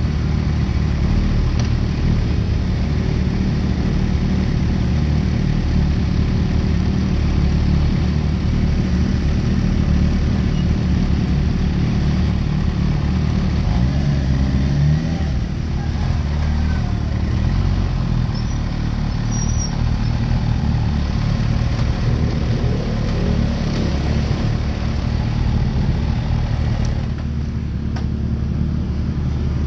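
Sport motorcycle engines idling steadily, with a short rising rev about halfway through.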